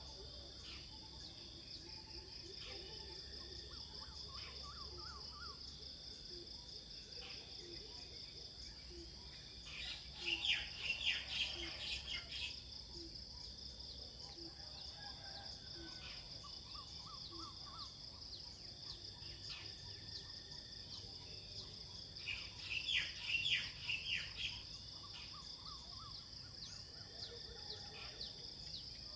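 Outdoor nature ambience: a steady high-pitched insect drone throughout, with a bird singing two loud bursts of quick descending notes, about ten seconds in and again near the end. A soft low note repeats about once a second through the middle.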